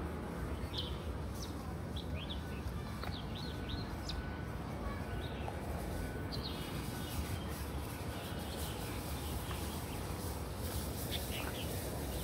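Small birds chirping in short, scattered calls, a few at a time with gaps between, over a steady low background rumble.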